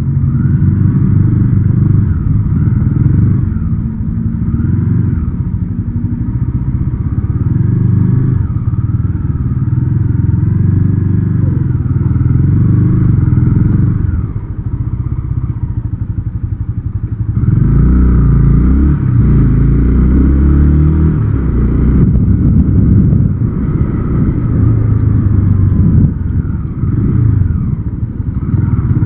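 Motorcycle engine running at road speed, its pitch rising and falling as it rides, and louder about two-thirds of the way through. It is heard through a helmet-mounted action camera's sealed case, with little wind noise getting in.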